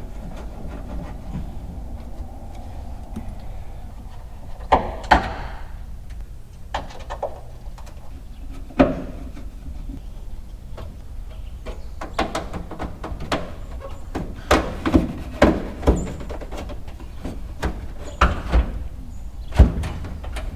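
Irregular knocks, bumps and clunks of hands-on work in and around a pickup truck's cab, a few of them sharp and loud, over a low steady shop background.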